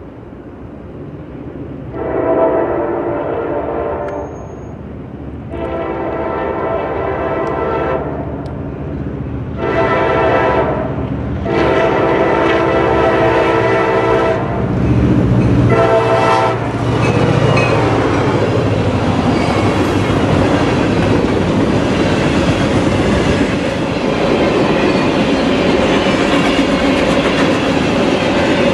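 A diesel freight locomotive sounds its multi-note air horn in a series of blasts for a grade crossing, mostly long with a short one between. It then passes close by with a surge of engine rumble, followed by the steady rolling noise and wheel clatter of the freight cars.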